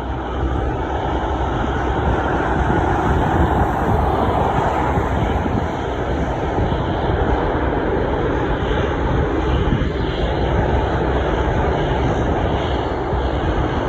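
Boeing 737 MAX 8 jet airliner on arrival, its CFM LEAP-1B turbofan engines giving a loud, steady jet rumble that swells for a few seconds early on.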